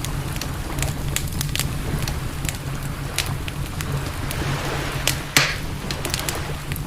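Campfire crackling, with many sharp pops and one louder pop about five and a half seconds in, over a steady low rumble.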